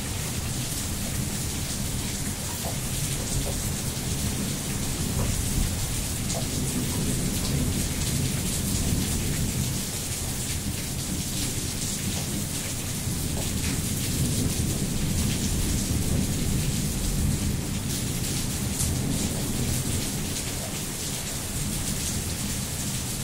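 Steady rain falling on wet paving and surfaces, with a low rumble underneath that swells and fades through the middle.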